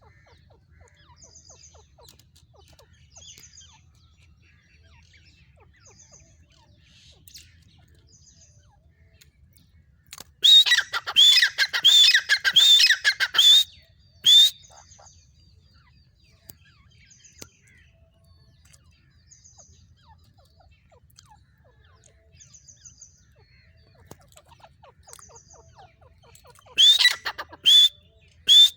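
Female grey francolin calling: a loud, rapid run of repeated notes lasting about three seconds around the middle, one more note just after, and a second short run near the end. Faint, high chirps repeat every second or two in the quieter stretches.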